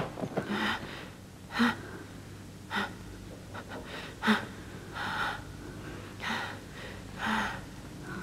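A person breathing in short, sharp gasps, about one a second, seven in all.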